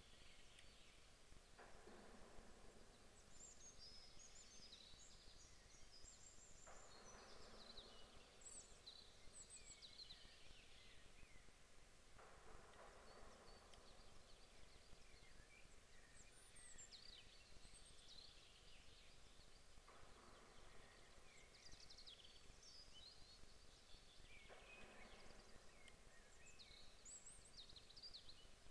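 Faint songbirds chirping in short high phrases in a very quiet outdoor ambience, with a soft rushing noise that swells for a second or two about every five seconds.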